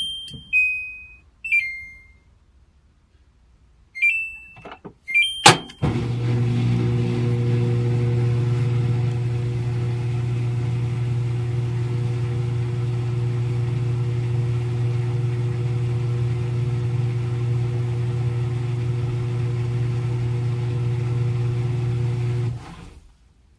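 Front-load washing machine: a few electronic control-panel beeps and a click, then the machine's motor running with a steady, even hum for about seventeen seconds before it cuts off suddenly.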